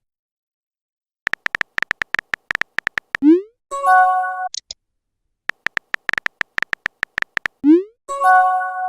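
Phone texting sound effects, twice over: about two seconds of rapid keyboard tapping clicks, then a short rising swoosh as the message sends, then a chiming message tone.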